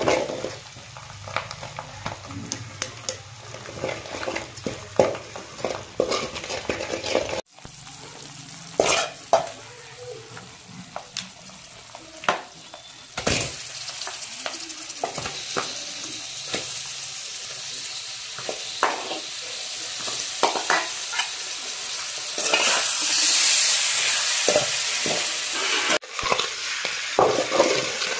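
A metal spoon scrapes and clinks against an aluminium pot as masala is stirred in hot oil. Raw chicken pieces then go in and sizzle, and the frying hiss grows louder as they are stirred.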